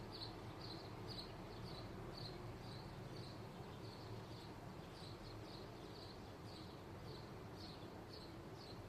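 A small bird chirping in a steady, even series of short high chirps, about two to three a second, over a constant low rumble of distant background noise.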